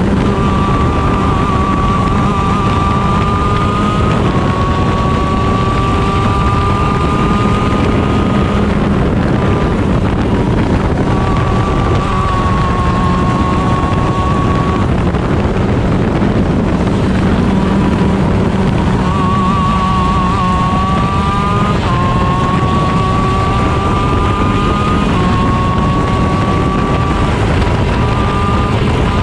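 Onboard sound of a 125cc shifter kart's stock Honda two-stroke engine at racing speed, its note climbing and dropping back at each gear change, with heavy wind noise on the microphone.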